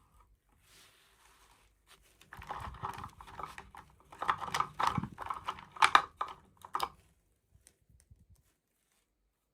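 Plastic toy packaging being handled during an unboxing: a faint rustle, then about five seconds of dense crinkling and clicking that stops short.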